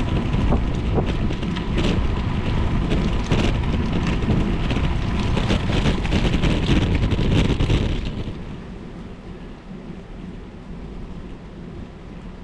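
Wind buffeting the microphone, with rain and wet-road noise, while riding a bicycle in the rain; about eight seconds in it drops to a quieter steady hiss.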